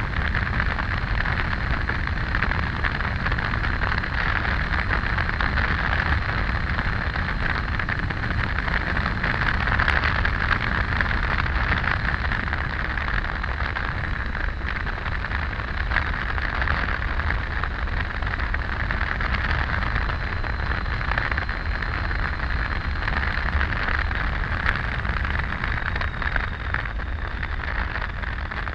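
Motorcycle riding at steady road speed: a constant rush of wind over the microphone with a low rumble of engine and road noise underneath.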